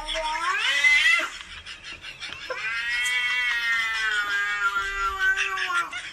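A cat meowing in two long drawn-out calls: the first rises in pitch and breaks off about a second in, and the second is held for about three and a half seconds, dropping slightly at the end.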